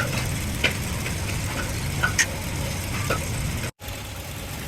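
Factory machinery or an engine humming steadily, with a few sharp clinks and taps. The sound cuts out briefly about three-quarters through, then the hum carries on a little quieter.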